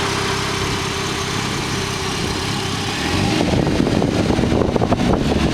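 Car engine running steadily, growing louder and rougher about three seconds in.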